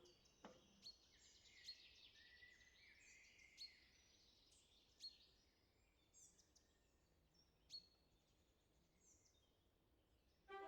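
Faint woodland birdsong: several birds chirping, with short sharp calls now and then.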